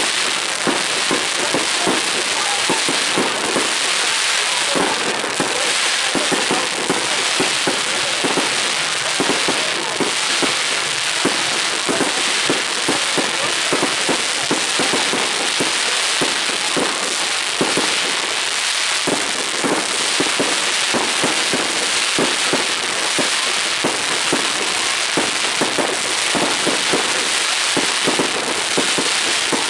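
Fireworks going off in a dense, continuous barrage of overlapping bangs and crackles, with no let-up.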